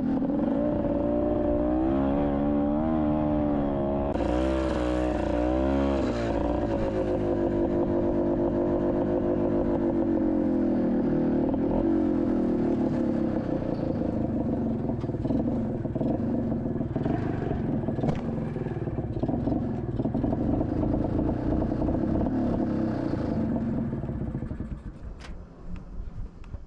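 Honda Odyssey FL250's two-stroke engine running, its pitch rising and falling with the throttle over the first several seconds, then holding steadier before dying away near the end.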